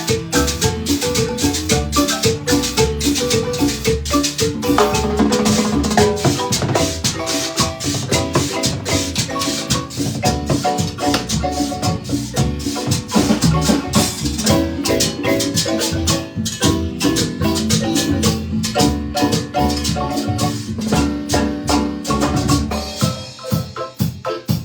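Live Guatemalan marimba ensemble playing a lively piece: rapid mallet notes over a steady bass, with shaken maracas and drum keeping the rhythm.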